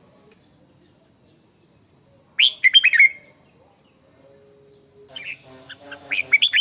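Red-whiskered bulbul singing: a short, loud phrase of quick sweeping whistled notes about two and a half seconds in, and more notes near the end, over a steady high thin whine.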